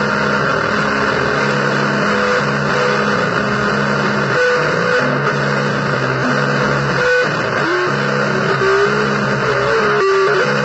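Electric guitar playing a slow blues line buried in a dense wall of noise, with held low notes that change every second or so.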